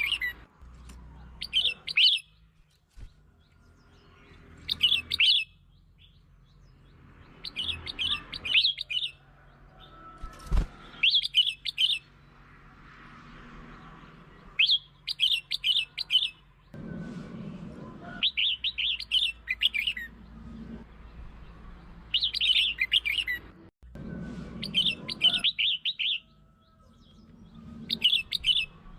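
Red-whiskered bulbul singing: short, quick phrases of bright chirpy notes, each about a second long, repeated every couple of seconds.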